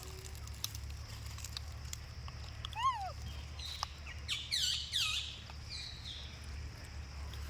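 A few short, high-pitched animal calls, each rising then falling in pitch: one about three seconds in, then a quick cluster of higher calls between about four and five seconds in, over a steady low hum.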